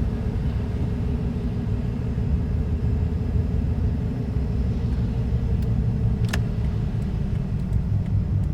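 Steady low rumble of a car driving, heard from inside the cabin, with a faint steady hum over it. A single brief tick comes about six seconds in.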